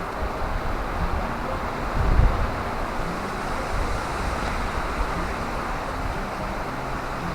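Wind buffeting the camera microphone: a steady rumble with a stronger gust about two seconds in.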